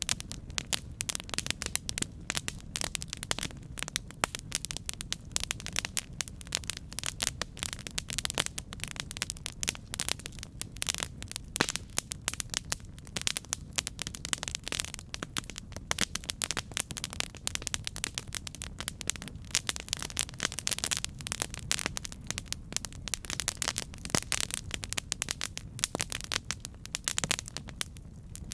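Campfire burning with constant dense crackling and popping of the wood over a low steady rumble.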